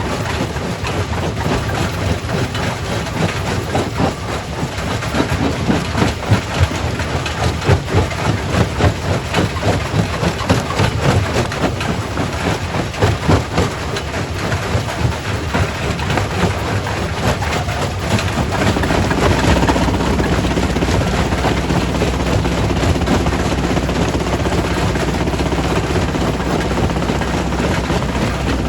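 Primary rock crusher breaking stone: dense, irregular knocking and clattering of rock over heavy machinery running. About two-thirds of the way through, the clatter gives way to a steadier, louder low engine drone.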